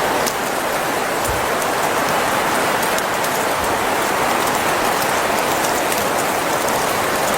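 Steady hiss of heavy precipitation falling on surfaces, with faint scattered ticks.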